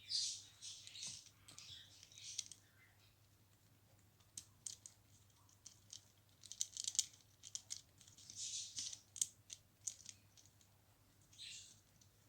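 Ringneck parrot playing with its toys: irregular sharp clicks and taps of beak and toys, with short bursts of high scratchy rustling or chatter every few seconds.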